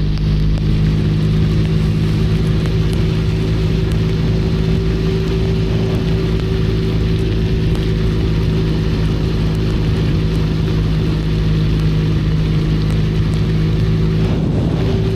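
Benelli Leoncino 500 Trail's parallel-twin engine running at a steady speed while riding, with a hiss of rain and tyre spray over it. The engine note shifts briefly near the end.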